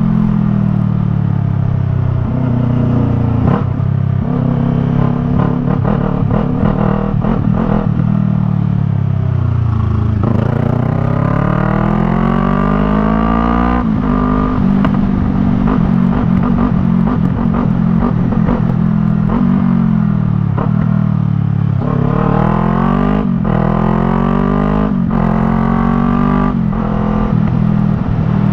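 Yamaha MT-03's parallel-twin engine through a Jeskap R3 Cup aftermarket exhaust, ridden on the road. The engine note falls as the bike slows, then rises steadily in a long pull through a gear and drops suddenly at the upshift, holds a steady cruise, and near the end rises again in a few shorter pulls with shifts between them.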